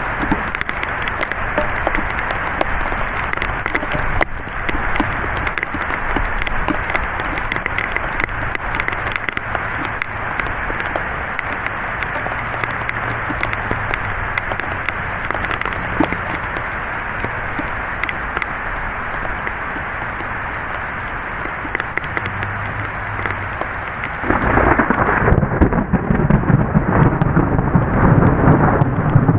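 Thunderstorm: heavy rain falling steadily with low thunder rumbling in the background. About 24 seconds in, a sudden, much louder crash of thunder breaks in and keeps rumbling.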